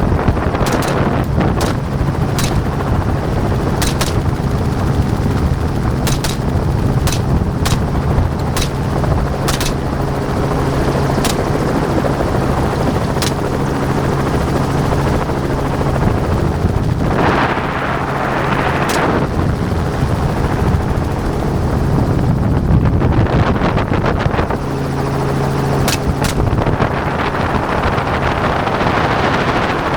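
A hovering helicopter's engine and rotor run steadily while a rifle fires from it: about a dozen shots at irregular intervals over the first half, then a quick pair near the end.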